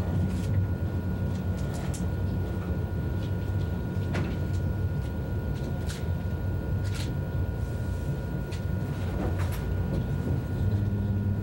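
Steady low rumble of an ICE high-speed train running, heard from inside the passenger car, with a few faint clicks and ticks scattered through it.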